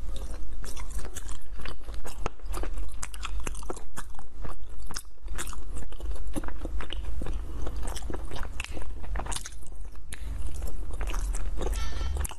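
Close-miked chewing of a soft green glutinous-rice ball (qingtuan) with red-bean filling: many quick, wet mouth clicks and smacks over a steady low hum.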